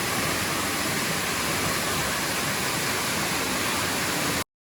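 Steady rushing of a small waterfall, an even wash of falling water that cuts off suddenly near the end.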